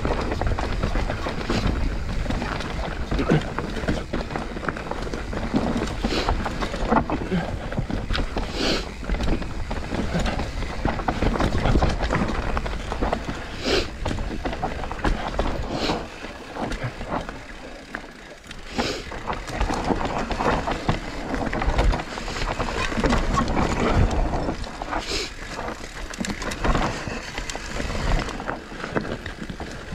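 Mountain bike riding fast down a dry dirt trail: tyres rolling and skidding over the dirt and the bike rattling over bumps, with wind buffeting the microphone. It goes briefly quieter about eighteen seconds in.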